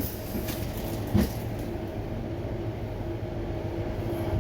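Freezer running with its two newly replaced evaporator fan motors turning: a steady mechanical hum, with one short knock about a second in. The fans are working again after the replacement.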